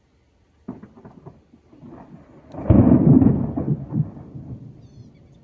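Thunder after a lightning strike: a few sharp cracks under a second in, then a loud low rumble that peaks near the middle and dies away over about two seconds.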